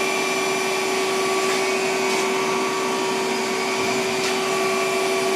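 Samsung PL10 CNC lathe running a program cycle with no workpiece, cutting air: a steady whirring hum with a constant mid-pitched whine and a couple of faint ticks.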